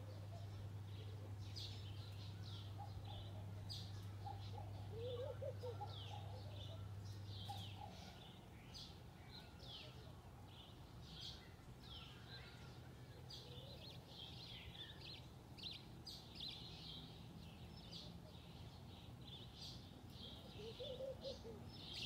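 Songbirds chirping and twittering in many quick, short, high notes overlapping one another. A steady low hum underneath stops about eight seconds in.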